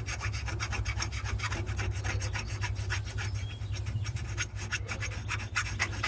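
Hand file working a metal car part in quick, even back-and-forth strokes, several a second, cleaning out a hole.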